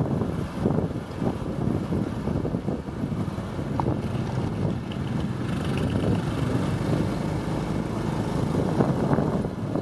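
Wind buffeting the microphone on a moving motorbike, over a steady rumble of engine and road noise.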